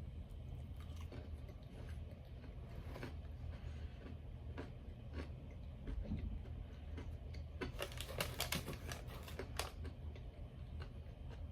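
Close-miked eating of oven-baked breaded chicken nuggets: scattered crunchy bites and chewing clicks, with a quick run of them about eight seconds in.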